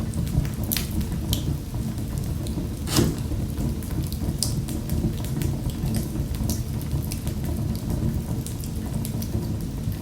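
Fireplace fire crackling, with scattered sharp pops over a steady low rumble of the flames; one louder pop about three seconds in.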